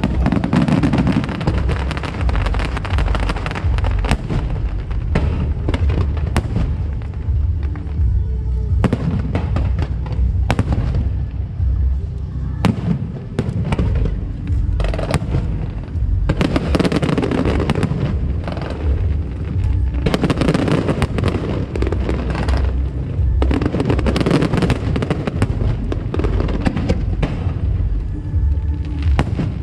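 Aerial fireworks shells bursting in a continuous barrage of sharp bangs and crackles over a steady low rumble, with music playing underneath.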